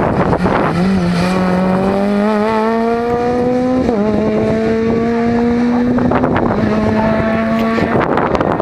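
Rally car engine accelerating hard out of a corner. Its revs climb, drop with a gear change about four seconds in, climb again, and then level off and fall away as the car pulls off. Wind buffets the microphone at the start and near the end.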